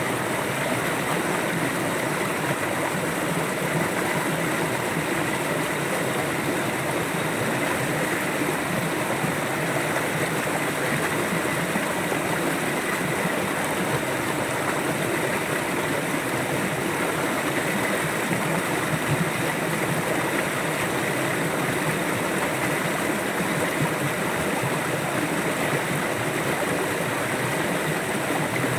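River water flowing steadily, a constant even rush of running water with no breaks or changes.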